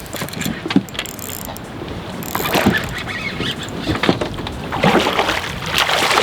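Wind and water noise on a small fishing boat in gusty storm weather, with scattered knocks and splashes, growing louder from about two seconds in.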